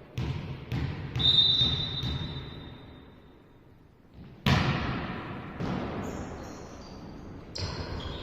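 A volleyball being struck and bouncing on a hard gym floor, several sharp hits and bounces echoing in a large hall, with a high-pitched tone lasting about two seconds early on.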